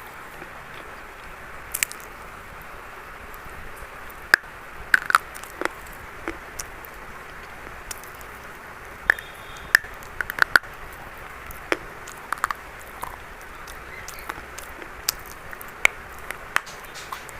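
Brittle brown chalk crunching and cracking in irregular sharp snaps, some in quick clusters, over a steady background hiss.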